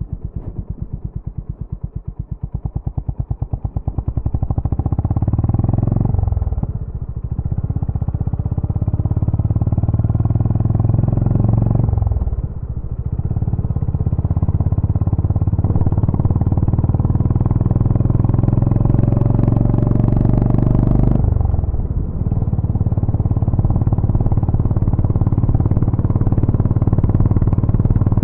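Honda GB350's air-cooled single-cylinder engine and exhaust, first thumping with slow, distinct firing pulses, then growing louder as the bike pulls away and runs on, with three brief dips in revs along the way.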